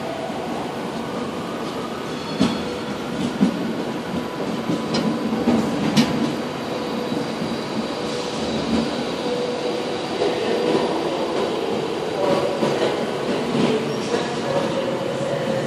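Virgin Trains passenger train rolling slowly along the platform, with a steady rumble of wheels on rail and some wheel squeal. A few sharp clicks come from the wheels crossing rail joints, mostly between about two and six seconds in.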